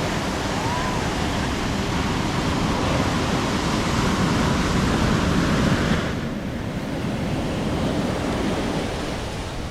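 Ocean surf washing up a beach, with wind rumbling on the microphone; about six seconds in the higher hiss drops away suddenly.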